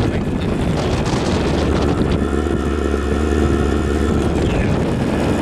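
Chinese diesel heater running with a steady combustion roar and fan hum, making a weird noise that doesn't sound right: it is not running properly, with the fuel burning mostly outside the exhaust pipe.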